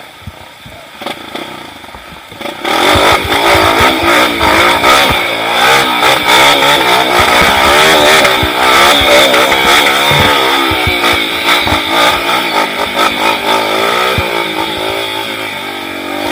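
Off-road motorcycle engine revving up and down on rough ground. It gets loud about three seconds in, with short knocks and clatter throughout.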